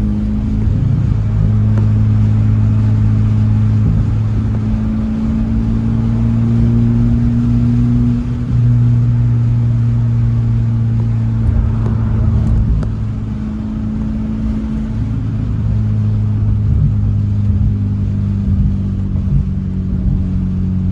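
Honda Civic Type R (FL5) turbocharged 2.0-litre four-cylinder with an AWE Track exhaust, running steadily under way with an even exhaust drone. There is a brief dip about eight seconds in, and the sound eases off a little around fourteen seconds before picking up again.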